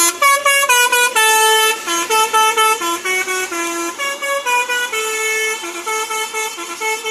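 Multi-tone musical bus horn (Indonesian "telolet" horn) on an Agra Mas Scania coach, playing a tune of quick stepped notes. After about five seconds the notes grow longer and somewhat quieter.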